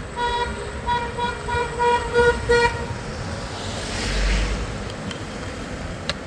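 A vehicle horn honks in a rapid string of about seven short blasts on one pitch, amid street traffic. A swell of traffic noise and low rumble, like a vehicle passing close, follows about four seconds in.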